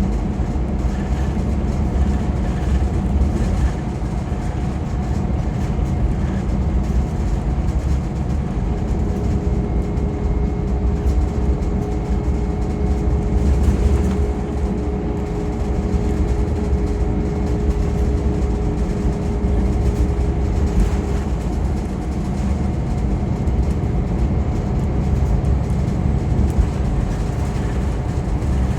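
Scania K410EB6 Irizar i6 coach under way, heard from on board: a steady low engine and road rumble. A steady higher whine joins about nine seconds in and drops away around twenty-one seconds.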